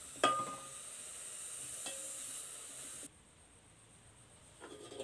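Cut okra sizzling as it roasts in a steel pot, stirred with a metal spoon that clinks against the pot twice with a short ring. The sizzle cuts off suddenly about three seconds in.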